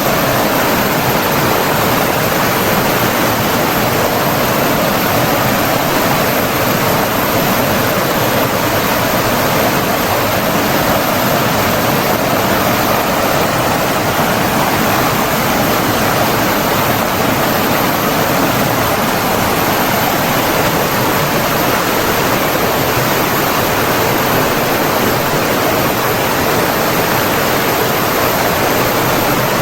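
Flowing water, a steady rushing noise like a stream or small waterfall, even and unbroken.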